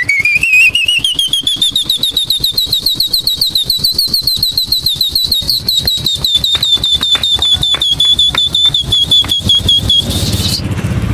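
A person mimicking an electronic doorbell with the mouth: a high warbling whistle that pulses about seven times a second. It rises in pitch over the first few seconds, then holds steady, and stops about ten and a half seconds in.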